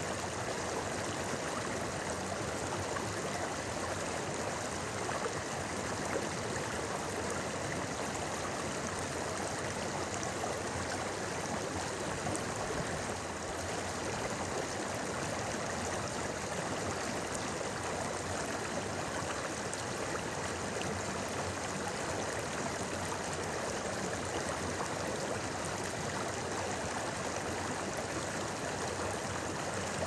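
Clear mountain river babbling over rocks, a steady rush of flowing water.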